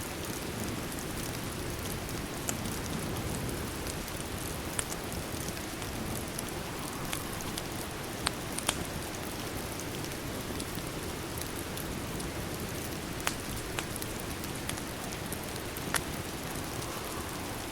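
Steady rain, with a few sharp pops and crackles from a wood fire scattered through it, two close together about halfway through.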